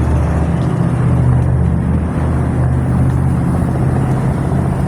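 Loaded dump truck's diesel engine idling steadily, a low even drone with no change in speed.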